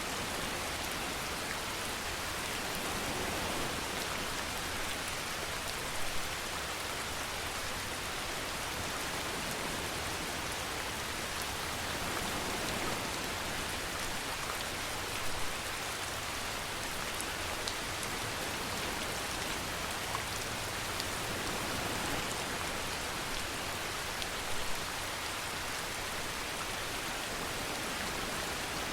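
Steady rainfall, an even hiss of rain on a surface, with a few louder drops standing out now and then.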